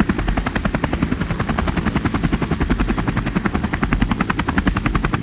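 Helicopter rotor blades chopping at a steady rate, in even pulses about eight or nine a second, cutting off abruptly near the end.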